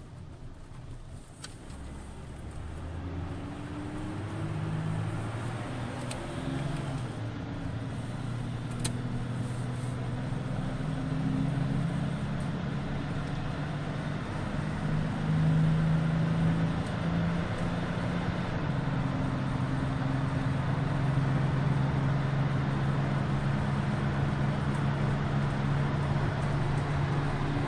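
Jeep Cherokee accelerating up to highway speed, heard from inside the cabin. The engine's drone changes pitch in steps as the transmission shifts through the gears, and the road and tyre noise grows steadily louder.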